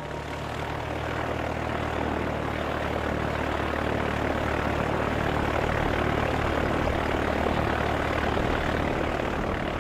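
Light propeller aircraft engine running steadily with a low, even drone. It grows louder over the first couple of seconds, then holds.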